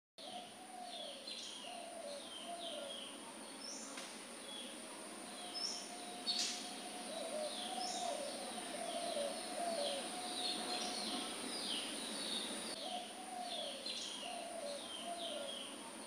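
Birds chirping: many short repeated chirps and whistles, with a lower warbling call underneath and a steady high hiss.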